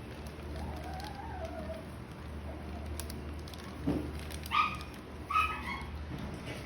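An animal calling twice, two short pitched calls about four and a half and five and a half seconds in, over a steady low hum, with a fainter wavering call about a second in and a dull knock just before the loud calls.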